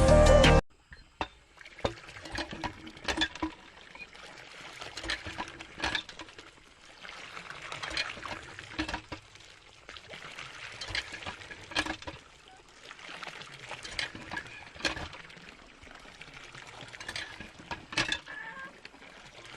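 Water trickling and pouring, with small irregular knocks and taps throughout.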